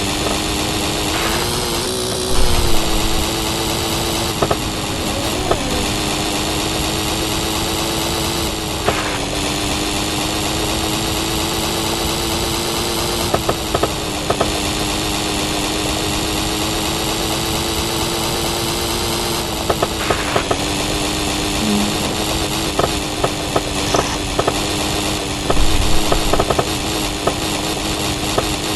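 Small two-stroke moped engine running at steady high revs, with a brief rise in pitch about two seconds in, a couple of short dips later, and scattered knocks.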